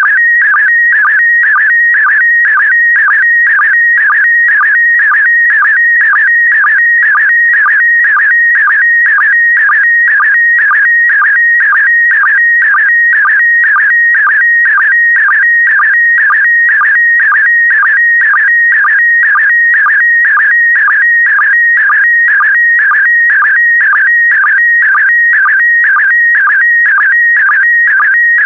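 Slow-scan TV signal in PD120 mode: an unbroken electronic tone warbling around 2 kHz, with a short dip repeating about twice a second as each image line is sent. It is the sound of a picture being transmitted line by line, to be decoded into an image.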